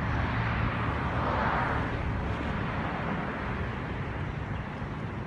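Road traffic noise: a steady rumble of passing cars that swells about a second and a half in, as a car goes by, then slowly fades.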